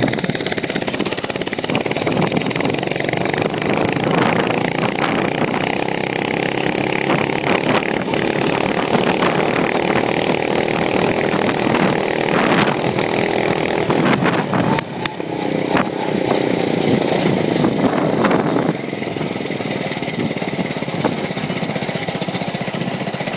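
The mini bike's 5-horsepower engine running, its pitch rising and falling as the throttle is opened and eased off. It settles to a quieter, steadier run over the last few seconds.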